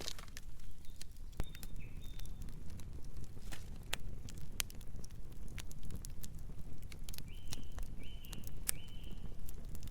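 Campfire burning with a low steady rumble and frequent sharp crackles and pops. Near the end, three short high chirps repeat evenly, a bit under a second apart.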